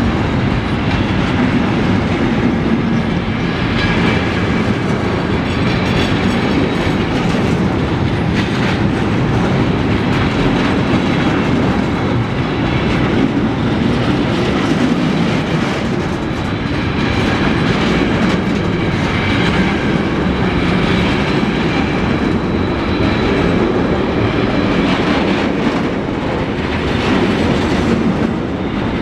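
Freight train passing, its wagons rolling by with a steady, loud wheel-on-rail noise that swells in a recurring rhythm as the wagons go past.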